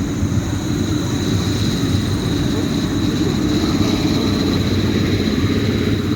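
Train running at a station: a steady, loud low rumble with a thin, steady high whine above it.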